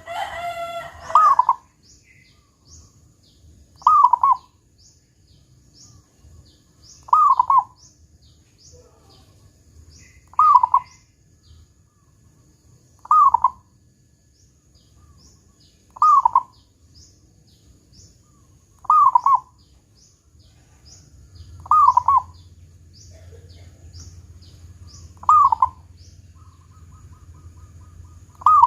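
Zebra dove (perkutut) singing: about ten short cooing phrases, one roughly every three seconds, each ending in the deep 'kung' note. A faint, fast high-pitched chirping runs underneath.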